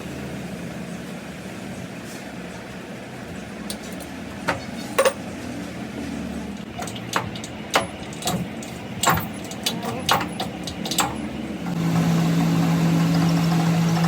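Workshop metalwork sounds: over a steady low motor hum comes a run of sharp metallic clinks and knocks, then about twelve seconds in a machine switches on with a loud steady hum.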